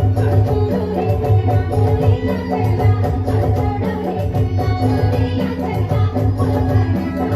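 Chhattisgarhi jawara folk song: singing over a steady beat of drums and jingling percussion.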